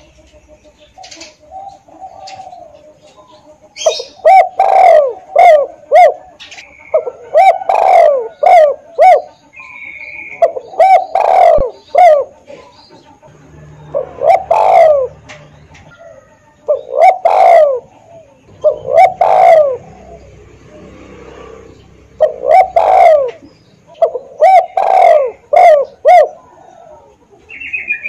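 Spotted dove cooing: phrases of several downward-sliding coos, repeated every two to three seconds after a quiet first few seconds. A short higher chirp sounds briefly near the middle.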